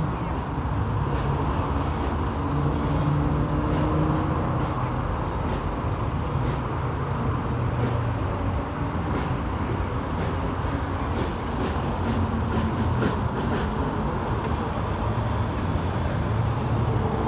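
A steady engine rumble under a wash of noise, with a low hum that holds level throughout and a few faint ticks.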